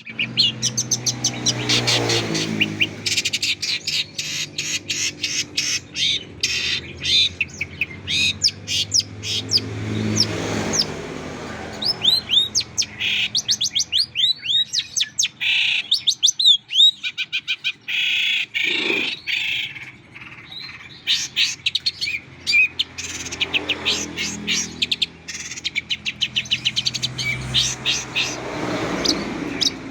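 Long-tailed shrike (pentet) singing a fast, varied song of rapid chirps and sliding whistles in near-continuous phrases. A low hum swells underneath a few times.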